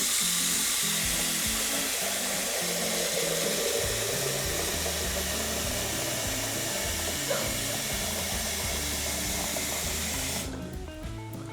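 Kitchen tap running hard into a pan, filling it with water for the pasta; the rush of water stops about ten and a half seconds in. Background music plays underneath.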